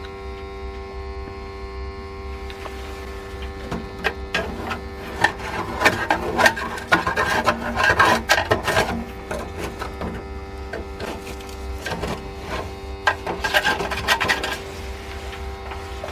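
A steady hum, with scraping and rubbing from hands working at the water heater in two stretches: from about four seconds in to about nine seconds, and again shortly before the end.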